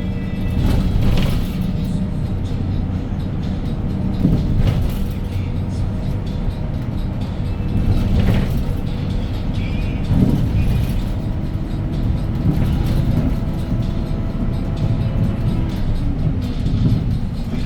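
2017 Hyundai Green City city bus under way, its C6GB CNG engine running steadily with road noise, heard from inside the cabin. Music plays alongside.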